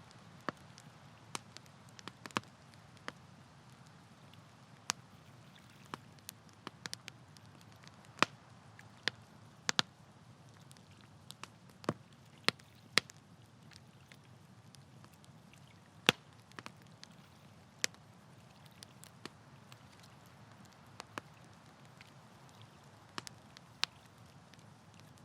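Wood campfire crackling, with sharp irregular pops and snaps over a soft low rumble of the burning fire.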